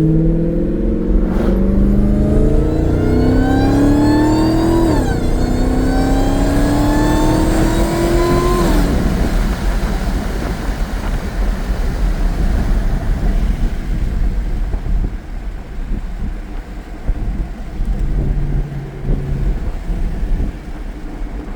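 Dodge Challenger Hellcat Redeye's supercharged V8 with a Corsa Xtreme exhaust accelerating hard, the engine note and supercharger whine climbing in pitch, dropping at an upshift about five seconds in, then climbing again. About nine seconds in the throttle is lifted and the whine stops, leaving a rough, uneven exhaust rumble.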